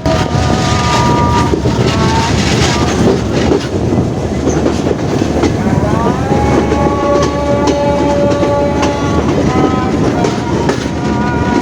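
Passenger train running and clattering over the track as it pulls into the station, with high squealing tones that come and go at different pitches, one sliding upward about halfway through.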